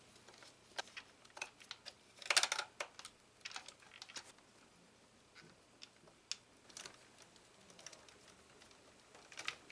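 Faint, scattered clicks and rattles of small plastic parts and screws being handled while the battery tray is refitted into a Traxxas TRX-4 RC truck. A short run of rattling clicks about two and a half seconds in is the loudest.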